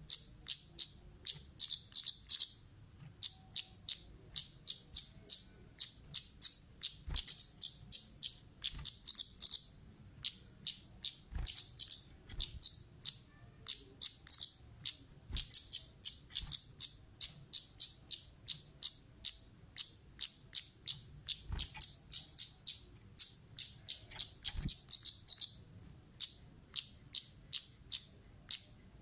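A kemade (talokan) bird calling in fast runs of sharp, high chirps, several notes a second, in bursts of a few seconds with short breaks between them.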